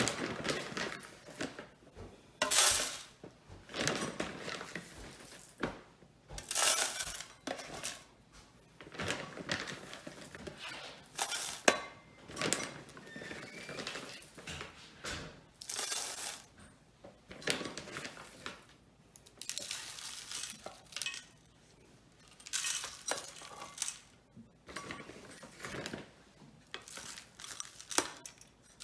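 Bird seed being poured into a bird feeder in a series of short pours, one every second or two, the seed rattling and clinking against the feeder.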